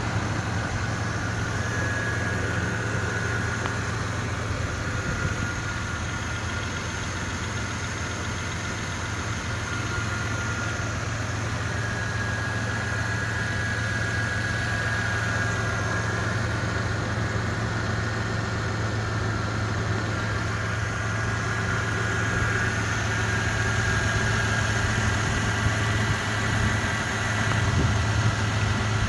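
2001 Toyota 4Runner's 3.4-litre DOHC V6 idling steadily, a little louder near the end.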